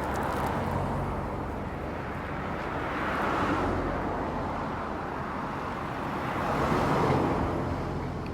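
Road traffic going by, with two vehicles passing close, one about three seconds in and one about seven seconds in.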